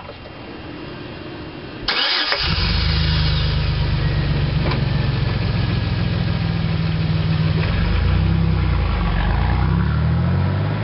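Chevy Blazer truck engine cranking and catching about two seconds in, then idling steadily through its exhaust; the idle pitch wavers a little in the last few seconds.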